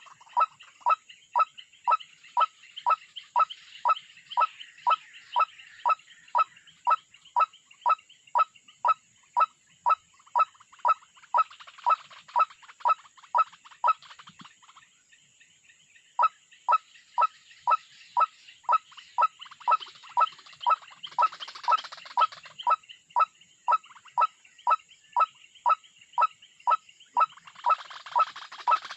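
White-breasted waterhen call: a short note repeated evenly about twice a second. It breaks off for about a second and a half midway, then resumes at the same pace.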